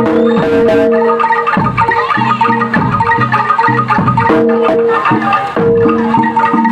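Gamelan-style music: metallophones struck in fast repeated notes over drum strokes.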